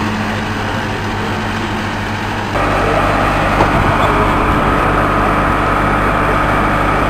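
An engine running steadily, with a low hum under a rushing noise; it gets suddenly louder about two and a half seconds in and stays there.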